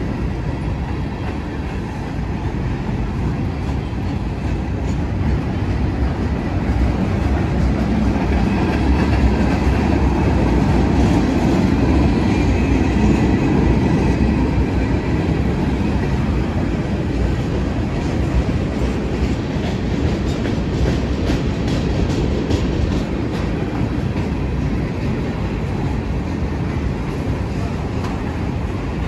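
Freight train cars (tank cars, then autoracks) rolling past with a steady rumble and rattle, growing louder around ten seconds in, with a run of light clicks about twenty seconds in.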